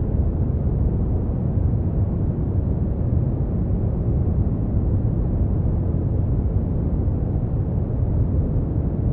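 Synthetic brown noise: a steady, deep rumbling hiss, heaviest in the bass and fading out in the highs, with no change.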